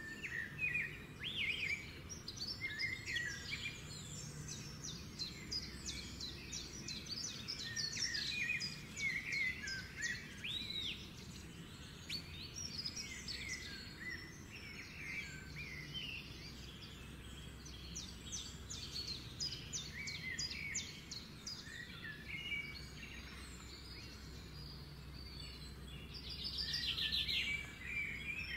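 Birds chirping and singing: many short rising and falling chirps and whistles one after another, with a fast trill near the end.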